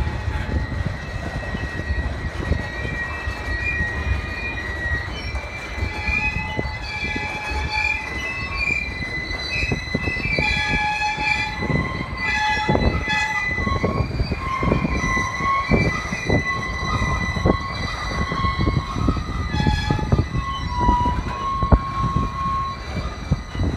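Freight train cars, a boxcar followed by centerbeam flatcars loaded with lumber, rolling past. Over a steady low rumble, the wheels squeal against the rail in short high tones that keep changing pitch, with scattered knocks and clanks, most of them around the middle.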